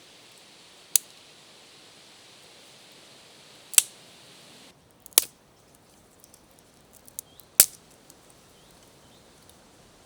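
Four sharp, loud cracks spaced about one to three seconds apart, with a few faint clicks between the last two.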